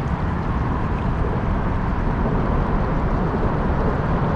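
Steady rushing noise with no clear tone or rhythm, from a kayak under way on a river.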